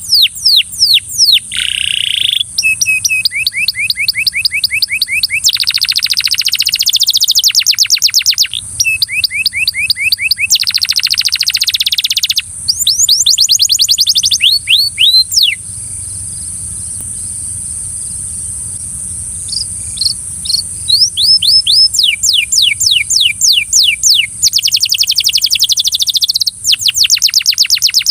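Belgian canary singing: loud runs of rapidly repeated notes and buzzy rolls, each run a second or two long, with a pause of a few seconds about halfway. A steady high-pitched hiss runs underneath.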